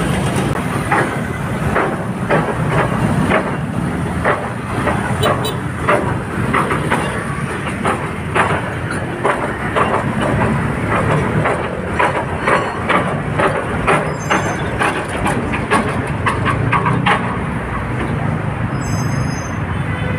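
Heavy road traffic rumbling, with a run of irregular metallic knocks or clatters through most of it that die away near the end.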